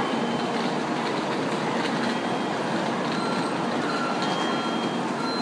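Shinkansen train rolling past along the platform: a steady, even noise of the moving cars, with a few faint high tones heard briefly in the second half.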